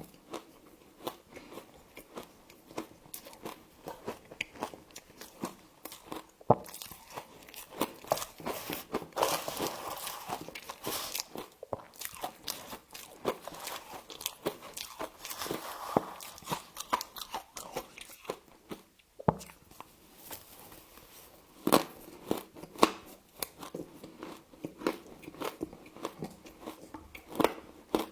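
A person biting and chewing frost: a steady run of crisp crunches and crackles, with denser stretches of crunching midway and a brief pause a little past halfway.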